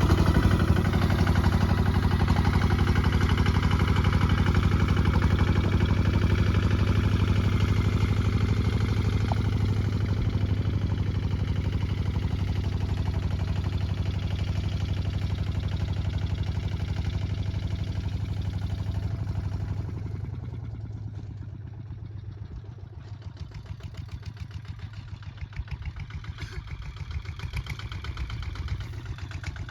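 Kubota ZT155 single-cylinder diesel tractor engine running steadily with an even rapid beat while plowing. About twenty seconds in it drops to a much quieter, lower running.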